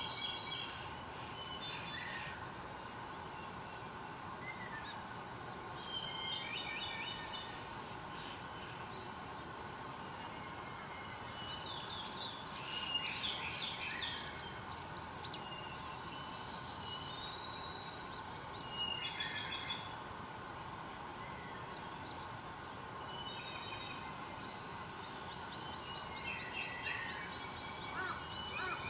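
Wild birds calling and singing on and off, with short chirps and a quick run of rapid notes about halfway through, over a steady background hum.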